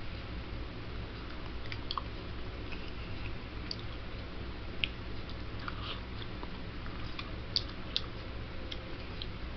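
A man eating soup: chewing and mouth sounds with a few short, sharp clicks, over a steady low hum.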